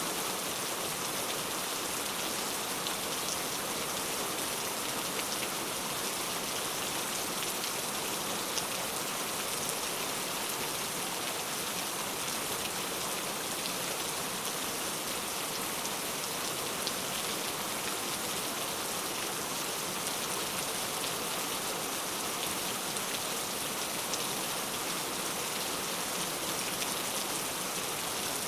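Heavy rain falling steadily, a dense even hiss of drops on surfaces with fine individual drop ticks and no change in intensity.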